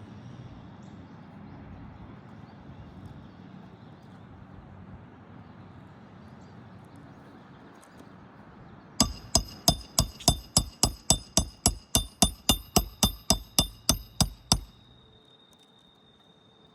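Hammer driving a roofing nail into a shingle: about twenty quick, ringing metal-on-metal strikes in a steady run of a little over five seconds, starting about halfway through.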